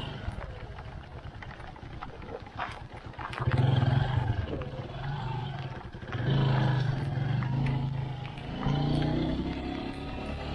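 Motorcycle engine running under way, getting louder in surges of throttle about three times, over steady road and rain noise with faint scattered ticks.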